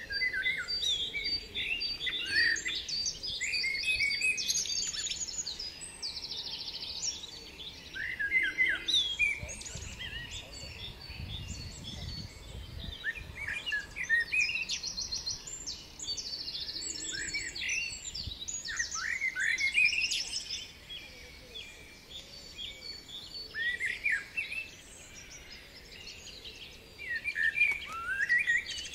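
Songbirds chirping and singing: quick rising and falling notes and short rapid trills, one phrase after another.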